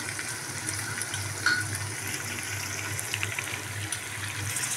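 Chicken pieces frying in oil in a pot: a steady sizzle with scattered crackles, over a low hum.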